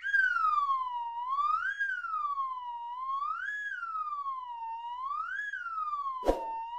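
An electronic tone sliding smoothly up and down like a slow siren, with a rise-and-fall about every two seconds, and a sharp click a little before the end.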